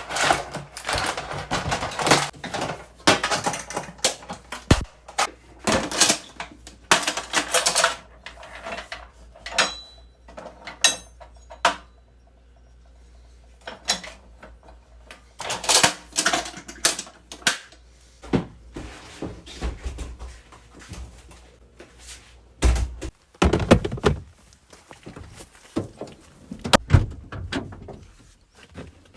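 Irregular clattering, clicking and knocking of hard objects being handled, with a few heavier low thumps near the end.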